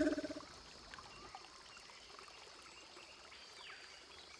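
A rapid pulsed animal call that stops about half a second in, then a stream trickling, with high insect chirring and small chirps, and one falling whistle near the end.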